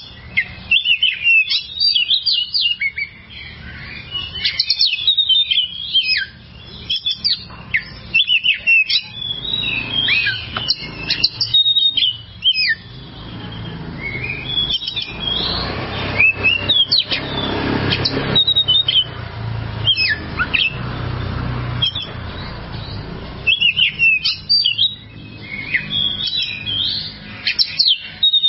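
Oriental magpie-robin (kacer) singing a long, varied song of quick sweeping whistles and chirps, broken by short pauses. In the middle stretch there is a rushing noise under fewer notes.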